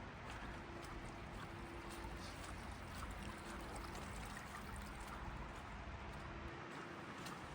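Steady rain falling, with many scattered drips and running water trickling.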